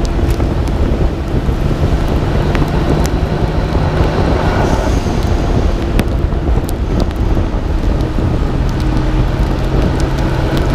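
Nissan Skyline R32 GT-R's twin-turbo RB26DETT inline-six running steadily on the move, heard through a hood-mounted microphone and half buried in heavy wind and rain noise. Scattered sharp ticks cut through the noise.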